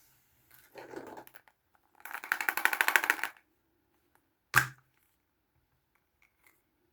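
Toy packaging handled close up: a short rustle, then about a second of rapid crackling, then a single sharp snap a little past the middle.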